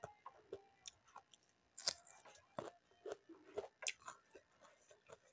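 A person chewing and biting crunchy food close to the microphone: irregular crisp crunches and wet mouth clicks, the loudest about two seconds in and again near four seconds.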